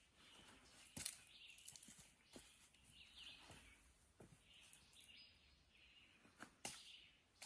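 Faint bird chirps and calls in woodland, broken by a few sharp clicks or taps, the loudest about a second in and near the end.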